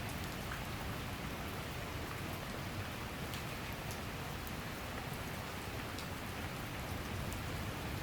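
Steady summer rain shower falling, an even hiss with scattered drop ticks.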